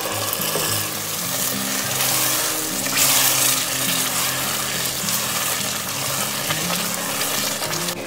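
Tomato stew frying and sizzling in an enamelled cast-iron pot as meat stock is poured in and the stew is stirred with a wooden spoon, loudest about three seconds in. Background music plays throughout.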